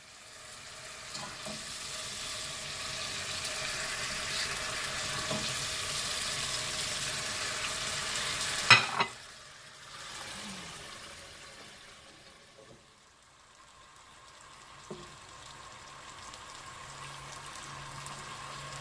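Pieces of veal sizzling as they fry in oil in a pan, building to a steady hiss. A sharp knock comes about nine seconds in; after it the sizzle is quieter, then slowly builds again.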